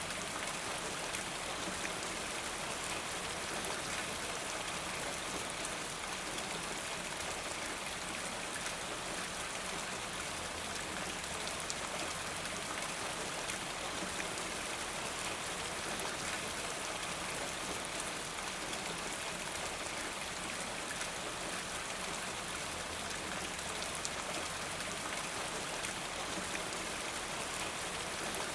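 Steady rain falling: an even hiss of rainfall with a fine patter of drops, unchanging throughout.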